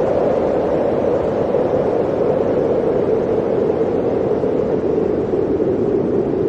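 Blizzard wind blowing steadily, a low howl that sinks slightly in pitch near the end.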